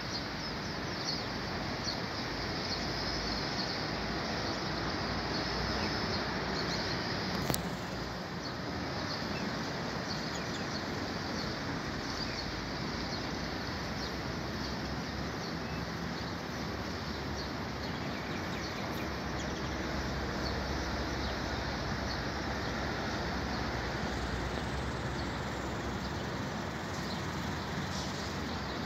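Oriental magpie-robin chirping faintly in short high notes over a steady background rumble and hiss, with one sharp click about seven and a half seconds in.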